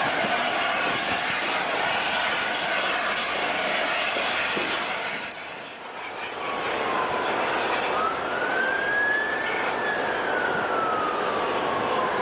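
A train passing at speed, a loud steady rush of noise that dips briefly about halfway through. After the dip a single wailing tone rises, then falls slowly over the noise, like an emergency-vehicle siren.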